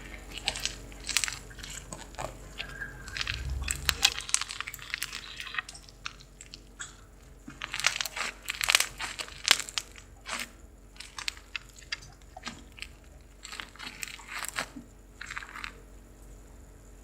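Hands squeezing and stretching slime that has foam beads in it, making irregular crackles and pops.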